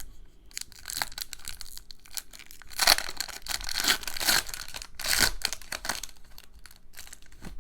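A Magic: The Gathering booster pack wrapper being torn open and crinkled, in several irregular bursts of rustling.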